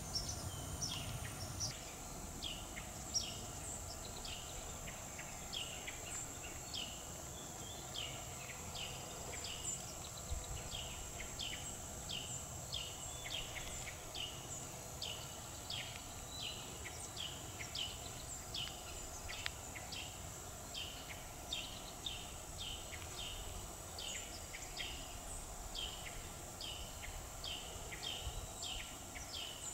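Outdoor woodland ambience: a bird repeats short, high, downward-sliding chirps, one or two a second, over a faint steady high whine.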